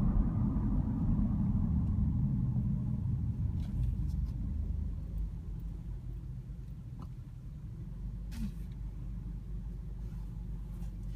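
Low rumble of a Long Island Rail Road M7 electric train, fading steadily as it moves away.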